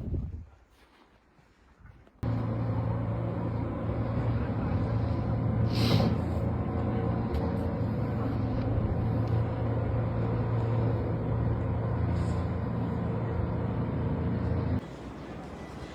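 A large vehicle's engine running steadily with a low hum, starting abruptly about two seconds in and cutting off shortly before the end, with a short hiss about six seconds in.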